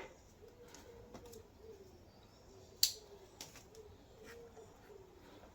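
Light scattered clicks and taps from handling and cutting sound-deadening mat, with one sharp click about three seconds in. A faint wavering tone sits underneath.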